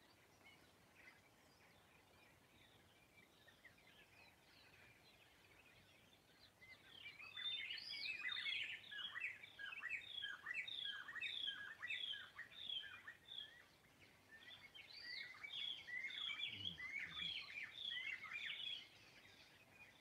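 Dawn birdsong: faint scattered chirping, then a louder bird sings a long run of short, repeated falling notes, about two a second, starting about six seconds in, pausing briefly near the middle, then going on again and stopping shortly before the end.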